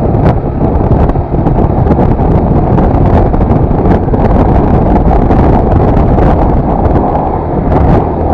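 Wind buffeting the microphone on a moving motorcycle: a loud, steady, low rush with a few short knocks.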